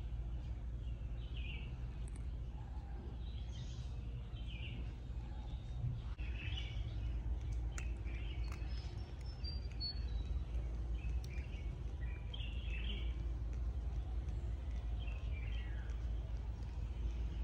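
Birds chirping off and on, in short high calls, over a steady low rumble of outdoor background noise.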